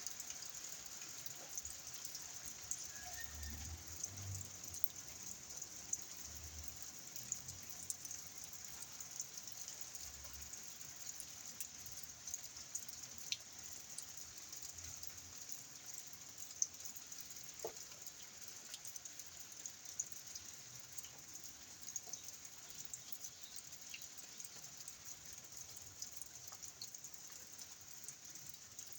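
Rain falling on a cornfield: a steady hiss of rain with scattered louder drops ticking.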